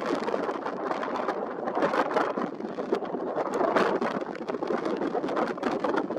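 Strong wind blowing through reeds: a continuous rushing noise with many small crackling rustles.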